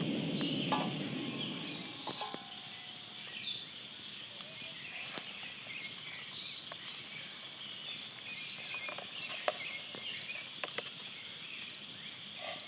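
A camp stove burner runs with a low rush and shuts off about two seconds in. After that, a steady high insect drone and short, repeated high chirps from frogs and insects carry on, with a few faint clicks of handling.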